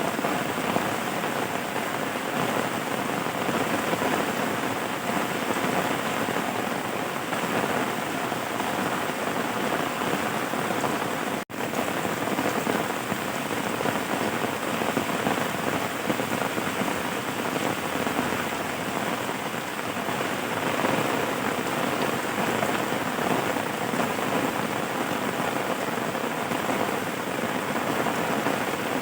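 Steady heavy rain falling and pattering on surfaces, an even, dense hiss. About a third of the way in it cuts out for a split second, then resumes.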